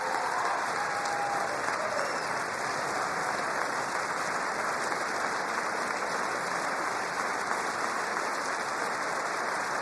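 Large audience applauding steadily and without letup in a big hall, a standing ovation for a Legion of Merit award.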